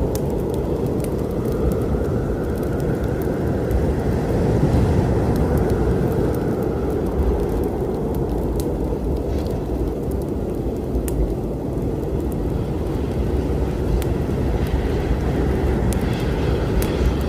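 Steady low rumble of a storm, with scattered sharp crackles and pops from a wood fire.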